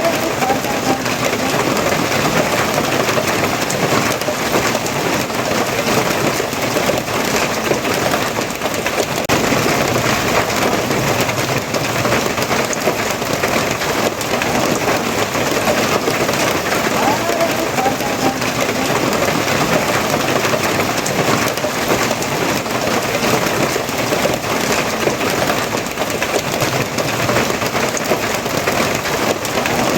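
Steady, heavy rain falling, an even, unbroken hiss of drops on surfaces.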